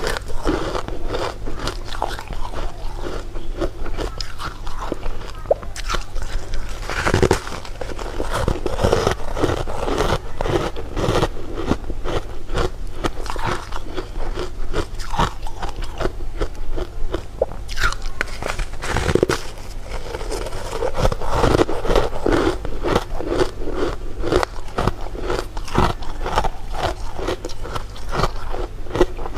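Close-miked eating: a steady run of crunchy bites and chewing, many small crackling clicks close together.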